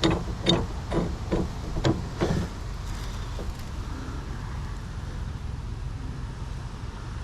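Sharp regular clicks, about two a second, which stop a little over two seconds in, over a steady low rumble that carries on after them.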